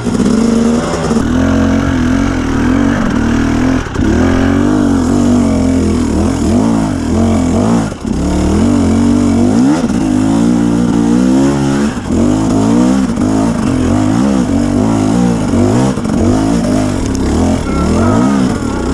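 A KTM 250 EXC two-stroke dirt bike engine ridden along a trail. It holds a steady pitch for a few seconds, then revs up and down over and over as the throttle is worked, with a few brief lifts off the throttle.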